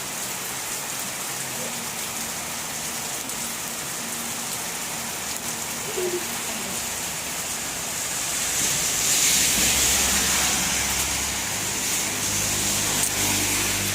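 Heavy rain pouring steadily. About eight and a half seconds in it swells louder for a few seconds, with a low rumble beneath that carries on to the end.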